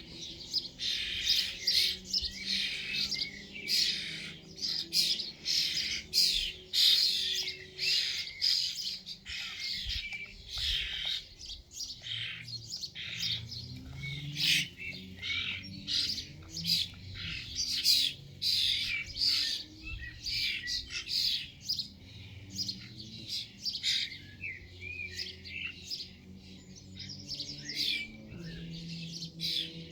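A crowd of small birds chirping and twittering over one another, a dense, unbroken chatter of short high calls.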